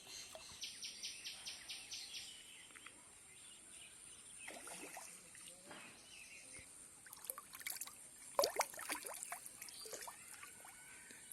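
Water splashing and sloshing in irregular bursts, loudest about eight seconds in, over a steady high insect-like hiss. A quick run of about eight chirps comes near the start.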